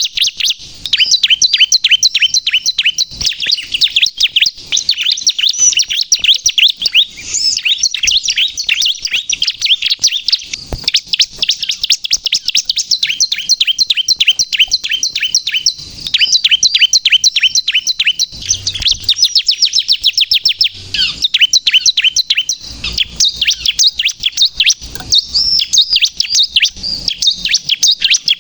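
Bar-winged prinia (ciblek, the 'kristal' colour form) singing vigorously: a fast, continuous run of short, high chirping notes at about ten a second, with a couple of brief breaks.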